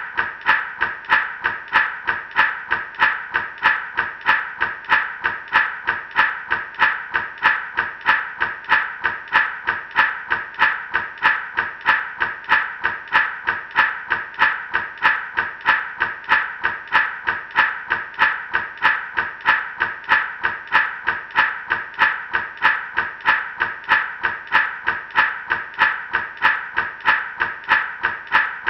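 Gourd rattle shaken in a steady, even rhythm, about three shakes a second.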